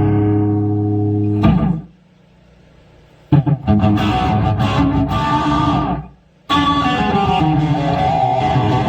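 Electric guitar played through a multi-effects pedal. One held note rings and stops about a second and a half in. After a short pause come two runs of strummed chords, the first stopping suddenly just after the six-second mark.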